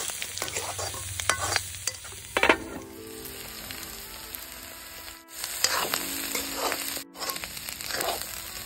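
Pork pieces and sliced onions sizzling in oil in a wok, stirred with a spatula that scrapes against the pan every second or two.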